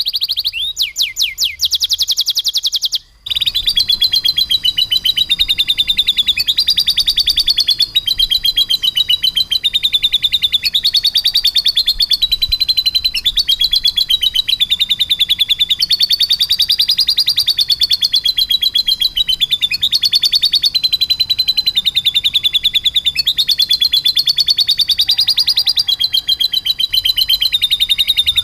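Domestic canary singing a fast, unbroken rolling trill that wavers up and down in pitch, in the lovebird-style song that canary keepers train for. It starts with rapid repeated sweeping notes, then a brief break about three seconds in, after which the trill runs on without pause.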